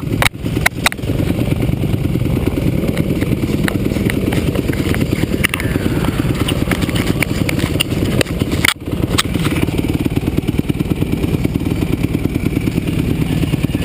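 Motocross motorcycle engine running steadily with a fast, even firing pulse. The sound drops out briefly near the start and again about nine seconds in.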